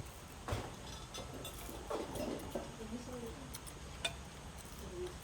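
A few sharp clinks of plates and cutlery at a meal table, with faint voices murmuring in the background.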